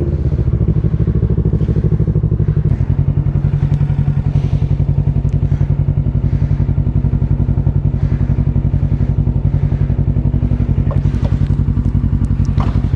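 Kawasaki Ninja 650's parallel-twin engine idling steadily through a Shark SRC-4 full aftermarket exhaust: an even, fast low pulsing that holds one pitch.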